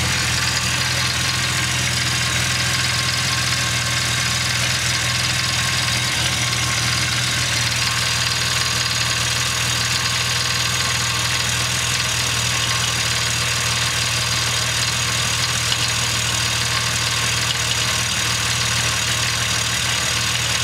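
Jeep Wrangler Rubicon's 4.0-litre straight-six idling steadily with its accessory belt off, heard close to the exhaust manifold. It has a light tick that the owner says comes only on cold starts and goes away as the engine warms.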